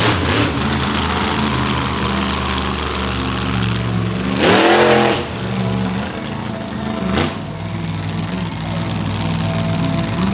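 Monster truck engine running, with a quick rev about halfway through, which is the loudest moment, and a shorter throttle blip a couple of seconds later.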